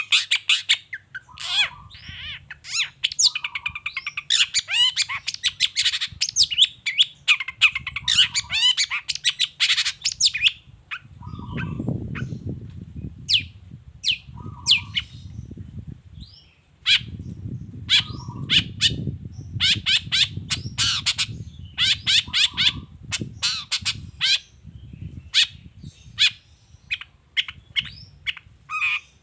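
Long-tailed shrike (cendet) singing a fast, chattering song of sharp, rapid notes: a dense run for the first several seconds, then quick single strokes. A low rumbling noise sits under the song through much of the second half.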